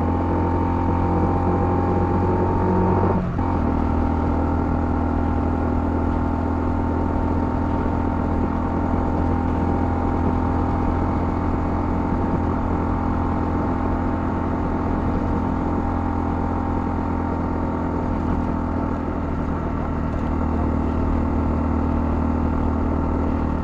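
Honda CL250's single-cylinder engine running steadily under way. About three seconds in, the engine note briefly breaks and drops, then settles into a steady cruising note.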